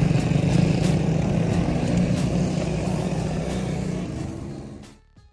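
Small single-cylinder pit bike engine running steadily, fading out about four and a half seconds in.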